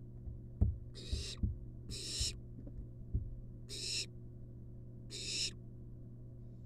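Barn owl nestling giving its hissing, rasping begging call four times, each about half a second long. Several dull knocks and scrapes in the nest box fall among the calls.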